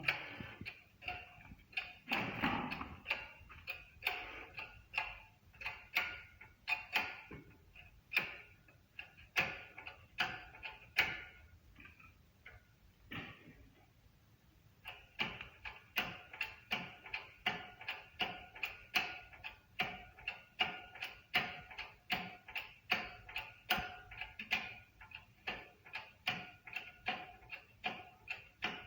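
Repeated sharp metallic taps, about one or two a second, each with a brief ringing tone. They pause for a couple of seconds partway through, then carry on at a steady pace.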